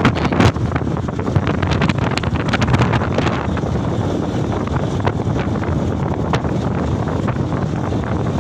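Wind buffeting the microphone on a moving Canter truck, over the steady rumble of the truck's running and road noise, with scattered short knocks and rattles.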